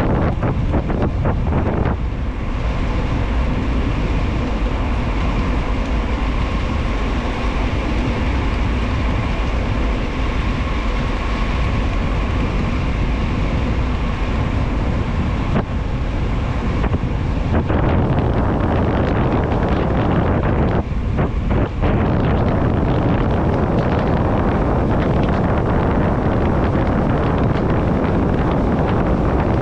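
Wind rushing over the microphone of a bicycle descending a paved mountain road at speed: a loud, steady rush, heaviest in the low end.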